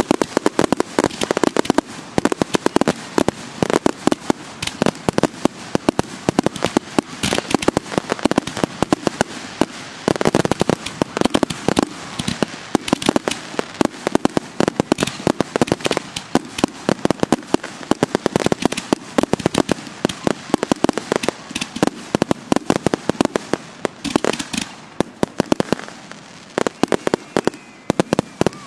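Fireworks grand finale: a dense, rapid barrage of aerial shell bursts and crackling, thinning out near the end.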